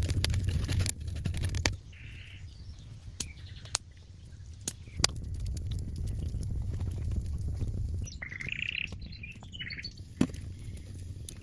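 Short bird chirps: one about two seconds in and a cluster of them near the end, over scattered sharp clicks. A low rumbling noise with clicks fills the first second and a half.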